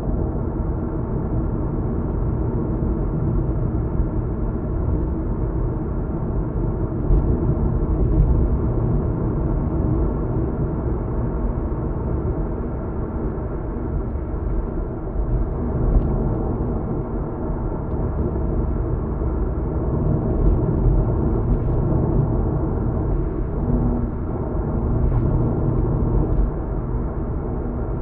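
Car driving, heard from inside the cabin: a steady low rumble of road and engine noise, with a few faint light knocks scattered through it.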